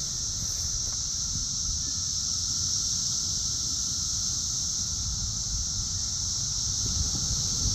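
Loud chorus of periodical cicadas: a steady, high-pitched buzz from many insects at once, holding without a break.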